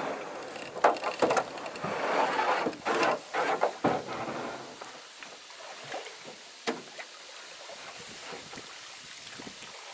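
A canoe being pushed off and boarded: water sloshing with a run of knocks against the hull for about four seconds, then quieter, with a few single knocks.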